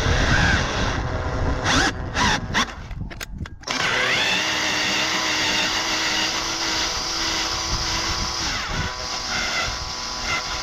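Electric drill at low speed turning a helicoil thread tap in a cylinder head bolt hole. The motor whines, stops and restarts with a few sharp clicks in the first few seconds, then spins up with a rising pitch about four seconds in and runs steadily.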